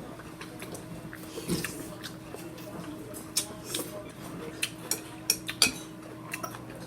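Utensils clinking against dishes: a string of short, sharp clinks, most of them in the second half, over a steady low hum.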